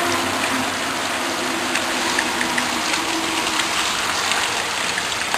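Steady rain pouring down, with scattered individual drops ticking on nearby surfaces.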